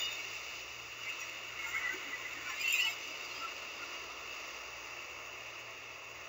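Recorded ocean waves breaking on a shore: a steady rushing surf with a brief louder swell about two and a half seconds in.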